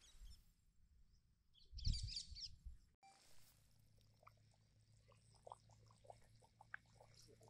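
Mostly quiet. About two seconds in, a short burst of bird chirping comes with a low thump, followed by faint scattered small ticks.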